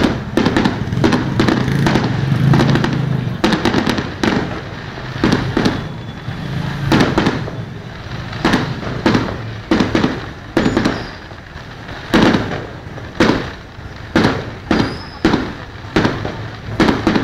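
Aerial fireworks bursting in a display: a fast, irregular string of sharp bangs, each with a short echoing tail. The bangs are closely packed at first and come about one a second, more separately, later on.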